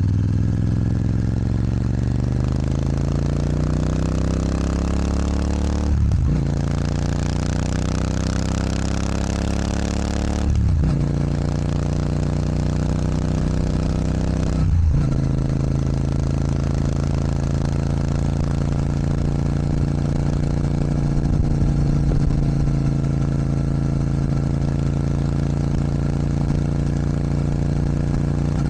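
Royal Enfield Super Meteor 650's parallel-twin engine, fitted with an aftermarket sports exhaust, pulling hard and rising in pitch through the gears. There are three upshifts, one about every four to five seconds, then the bike holds a steady cruising speed.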